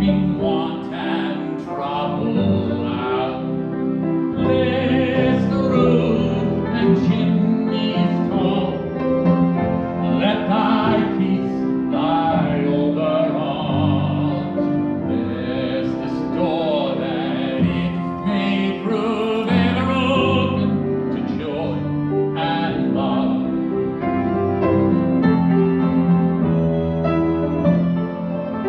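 Classical-style singing with piano accompaniment, long held notes throughout.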